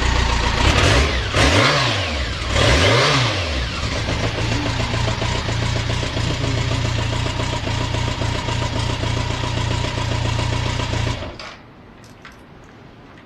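BMW K1's inline four-cylinder engine idling, blipped twice in quick succession with the revs rising and falling back, then settling to a steady idle before being switched off about eleven seconds in. The idle is stable with no abnormal noise, as the seller states.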